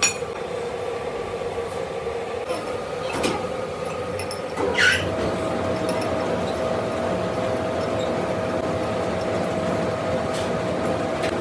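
Machine tool running with a steady hum, with a sharp clink at the start. A short squeal comes about five seconds in, after which a second steady tone sits a little higher in pitch.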